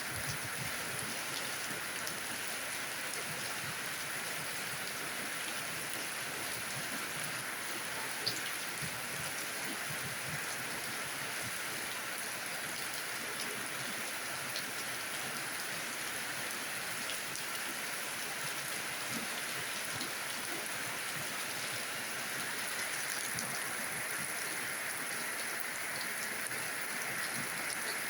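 Steady rainfall: an even hiss of rain with scattered small drop ticks, and one sharper drop hit about eight seconds in.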